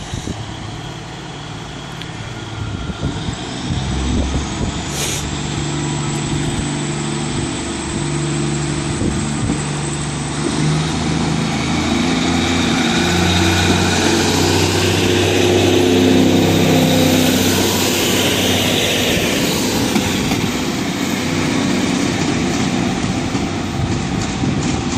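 Class 150 Sprinter diesel multiple unit pulling out of the platform: its underfloor diesel engines rev up under power, the engine note stepping up in pitch and growing louder for the first sixteen seconds or so, then holding. A single sharp click sounds about five seconds in.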